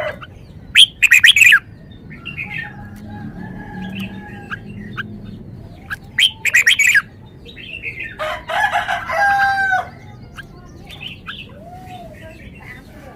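Red-whiskered bulbul singing in loud, short phrases: about a second in, about six seconds in, and a longer phrase from about eight to ten seconds, with softer calls between.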